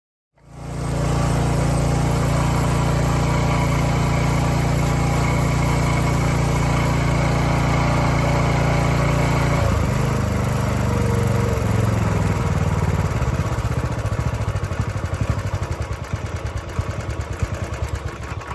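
An engine running steadily; about ten seconds in, its note shifts lower and turns uneven and wavering.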